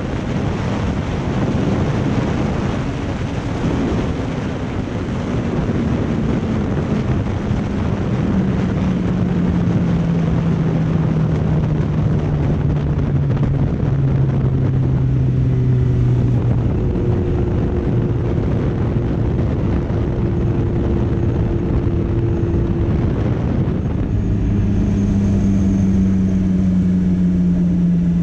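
Motorcycle on the move, with heavy wind rush over the microphone and an engine note that slowly falls in pitch as it slows. Near the end the wind rush drops away, leaving a steady low engine note.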